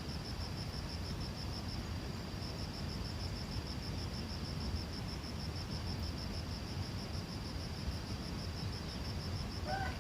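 An insect trilling in a high, steady, rapidly pulsing drone over a low background rumble. A rooster begins to crow near the end.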